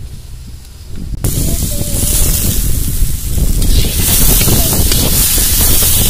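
Chicken pieces frying in hot oil and spice powder in a large iron kadai: a loud, steady sizzle that starts suddenly about a second in.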